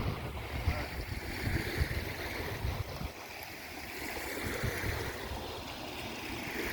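Wind buffeting the microphone in irregular gusts over the steady wash of waves on the beach.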